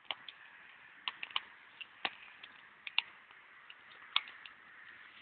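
Wood fire crackling: irregular sharp pops and snaps, roughly three a second, over a faint hiss.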